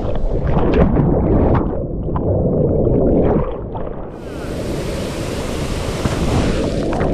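River water churning around an action camera that has gone under after a jump from a waterfall: a muffled, bubbling rumble with splashes. About four seconds in the camera comes up into the air and the full hiss of the rushing water and falls cuts in.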